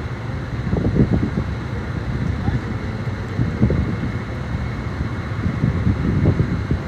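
Wind buffeting the phone's microphone in irregular gusts over a low street rumble.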